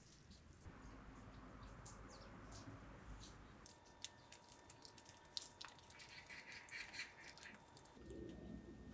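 Near silence with faint, scattered high chirps and ticks, and a faint steady tone through the middle that cuts off near the end.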